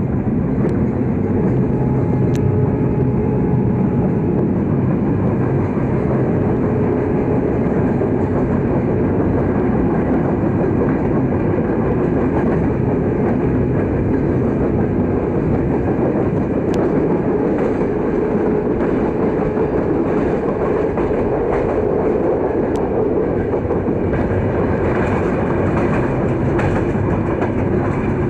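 Passenger train running at speed, heard from inside a coach of a PT INKA-built air-braked rake: a steady rumble of wheels on the rails, with a few sharp clicks.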